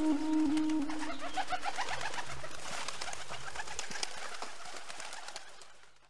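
Birds calling in a run of short, quick repeated notes, fading out near the end. A held low tone dies away in the first second and a half.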